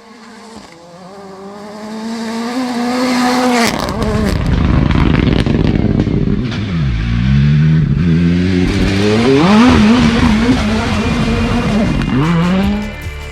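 Rally car engine at full throttle on a gravel stage, growing louder over the first few seconds as it approaches. It revs up hard, and its pitch drops sharply and climbs again a few times as it changes gear, over the rumble of the tyres on loose gravel.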